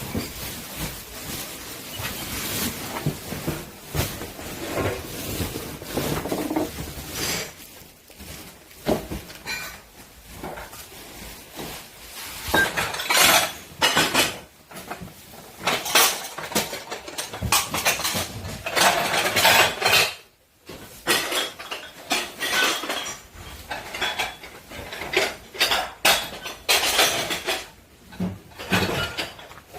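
Dishes, pots and cutlery clattering and clinking in irregular bursts as kitchenware is handled and cleared out, with a short pause about two-thirds of the way through.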